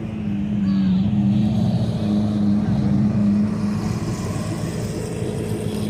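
Lamborghini engine running as the car drives slowly past, with a steady low note that swells about half a second in and eases off toward the end.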